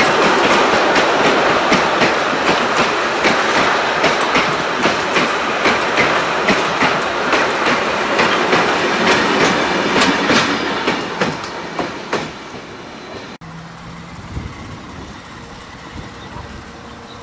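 Heritage passenger train rolling past, its carriage wheels clicking over the rail joints in a steady rhythm over a continuous rumble, with the diesel locomotive at the rear going by; the clatter fades away about eleven seconds in. After a sudden cut the sound is much quieter, a distant train, with a faint steady tone starting near the end.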